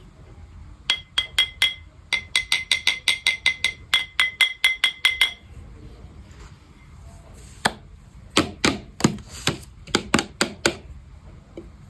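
Fast ASMR tapping on a hard object that rings with a clear tone, about six taps a second in two runs. After a pause of a couple of seconds comes a slower set of about eight heavier, duller knocks.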